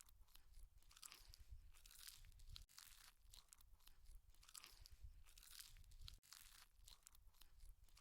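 Quiet close-up chewing of crunchy raw salad, a steady run of crisp crunches about one to two a second.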